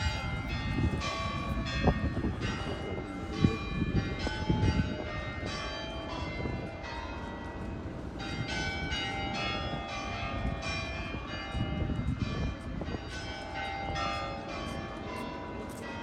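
Tower bells chiming at the hour, a fast run of struck notes at changing pitches ringing over one another, taken for a public clock striking one o'clock rather than church bells. Wind rumbles on the microphone.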